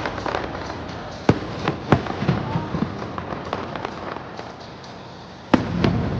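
Fireworks exploding, with sharp bangs about a second in, again near two seconds, and a loud one near the end. Smaller crackling pops fall between the bangs.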